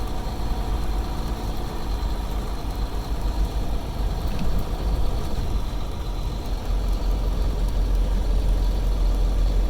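Semi-truck's engine running at low speed, a steady low rumble from inside the cab, growing a little louder near the end.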